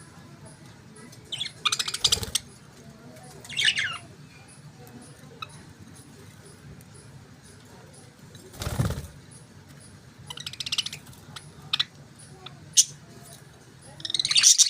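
Budgerigars chirping and chattering in short, high-pitched bursts with quiet gaps between, busiest near the end. About nine seconds in there is a brief, broad rustle.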